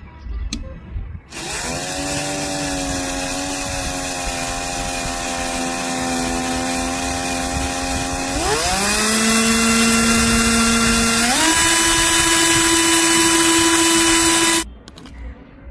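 Miniature model engine starting up and running with a steady high whine. Its speed steps up twice, then it cuts off suddenly near the end.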